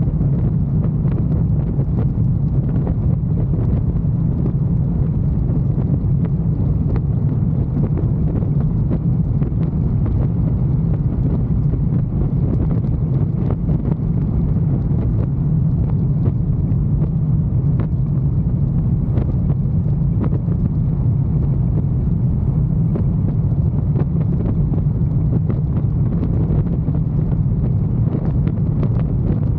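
Motorcycle on the move: a steady low rumble with wind buffeting the microphone.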